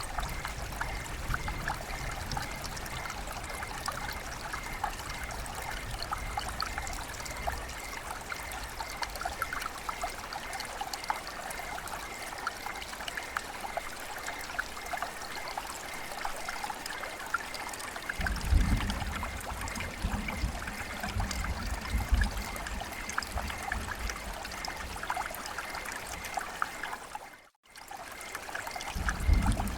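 Water trickling and splashing steadily, with a patter of many small drips over it. Low rumbling gusts come in after about eighteen seconds, and the sound drops out for a moment near the end.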